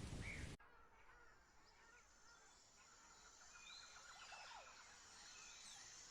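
A louder noisy stretch cuts off suddenly about half a second in. What follows is faint outdoor ambience with scattered small bird chirps.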